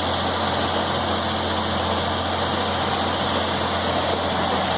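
Circular sawmill running steadily at speed, its engine and freshly mounted 49-inch blade spinning free without cutting. The blade is running true, standing straight on the arbor.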